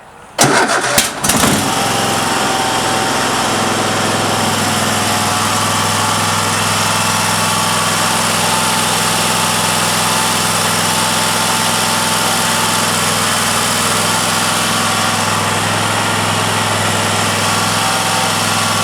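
Cub Cadet riding mower's Kohler Courage 26 hp V-twin engine cranking on starting fluid and catching after about a second, then running steadily at near-fast throttle.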